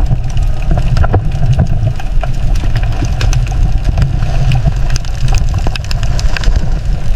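A loud, low rumble like a heavy engine running, with many sharp clicks and crackles scattered through it.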